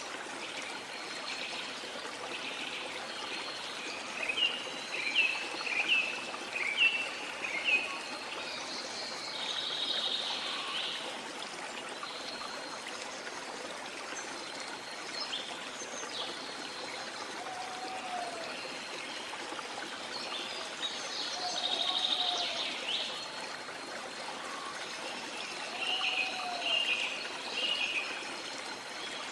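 Steady rush of sea water with small birds chirping over it: a run of about six quick chirps between four and eight seconds in, and more bursts of chirping later, along with a few softer lower calls.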